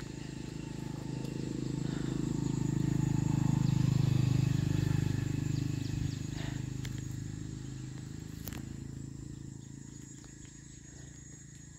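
Engine of a vehicle passing on the road, a low pulsing hum that grows louder over about four seconds and then slowly fades away.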